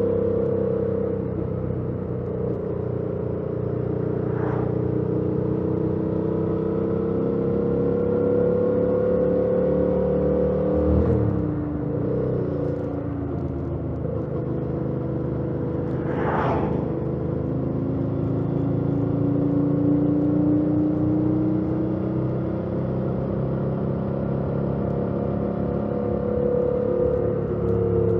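A 2018 Yamaha MT-07's stock-exhaust parallel-twin engine running under way on the road, its note rising and falling gently with the throttle. There is a brief break in the engine note about eleven seconds in, and two short hisses, one near the start and one about midway.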